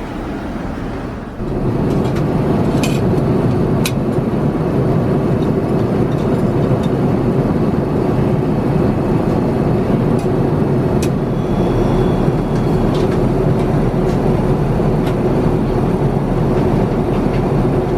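Steady in-flight cabin noise of an Airbus A350-900 airliner: the even rush of air and engines, which gets louder about a second and a half in, with a few faint clicks.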